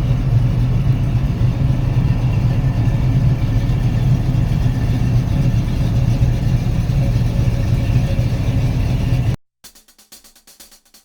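V8 car engine running steadily with a deep, even note. It cuts off suddenly near the end, leaving faint music.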